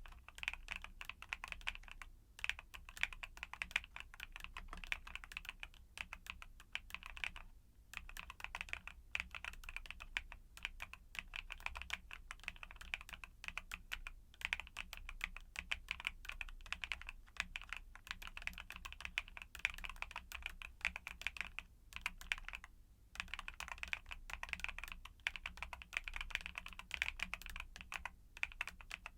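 Continuous fast typing on a mechanical keyboard with YUNZII Cocoa Cream switches: a dense stream of key clacks, broken by brief pauses a few times.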